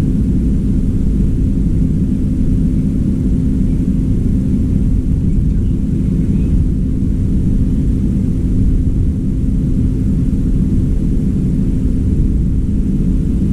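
Steady low rumble with a constant low hum through it, unchanging throughout.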